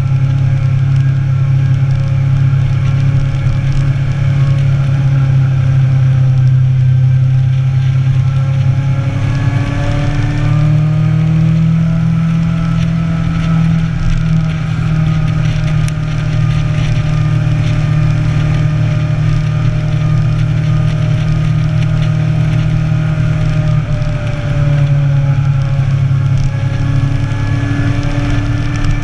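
Inline-four motorcycle engine running steadily under way, with wind rushing over the microphone. Its pitch climbs about ten seconds in as the bike speeds up, holds, then drops a little near the end.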